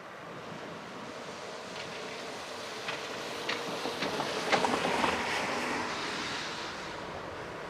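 A train approaching and passing on the line, its rumble building to a peak about five seconds in, with a run of sharp clacks from the wheels crossing the rail joints.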